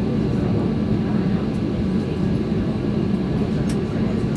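Steady low drone of a Boeing 737-800 heard from inside the cabin, with a couple of faint clicks.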